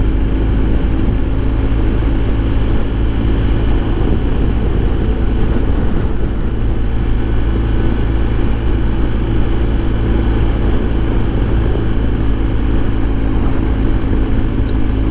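Steady wind rush inside a motorcycle helmet while riding, over the low drone of the BMW R1250 GS Adventure's 1250 boxer twin.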